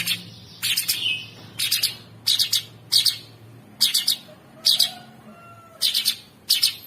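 Cucak sungkok bird calling in a quick series of short, harsh notes, about nine in all, each over in a fraction of a second.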